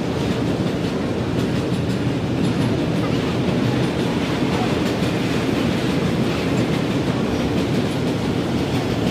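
A train running on the tracks: a steady, loud noise of its wheels and cars on the rails, unbroken throughout.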